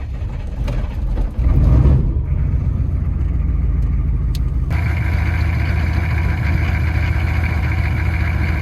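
Plow truck engine catching about a second and a half in and then running steadily, with a steady higher whine joining in about halfway through.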